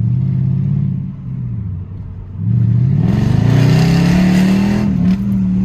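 Straight-piped Mercedes-Benz CLS V8 exhaust under hard acceleration. After a brief lift, the engine note climbs steadily for a couple of seconds. Over the climb, a broad hiss is heard as the tyres spin and the car goes sideways.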